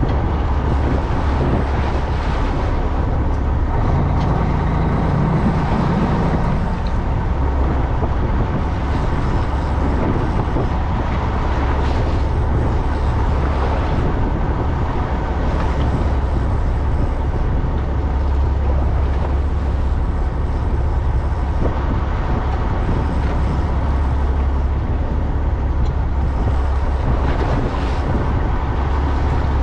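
Fishing boat's engine running steadily, a constant low drone with a broad hiss over it.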